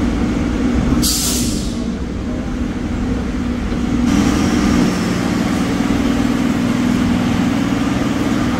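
Mumbai suburban electric train running, heard from on board as a steady low rumble and hum, with a short sharp hiss about a second in.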